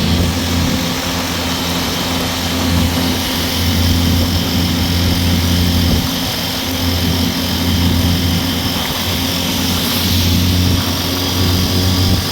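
Torrential rain falling as a continuous hiss, with a steady low hum underneath.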